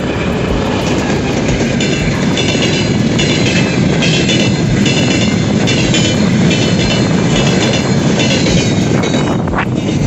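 Strong wind buffeting the microphone, with a regular crunching about every 0.6 s from about two seconds in until near the end, like footsteps on the beach.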